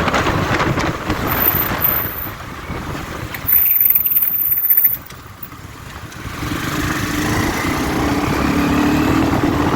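Riding noise from a moving motorbike: wind rushing over the microphone with the engine running, and a steady engine hum building through the second half.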